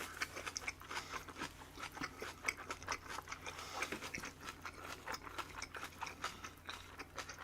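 Close-miked chewing of a crunchy bossam wrap of boiled pork and kimchi cabbage, with many short wet crunches and mouth clicks, several a second.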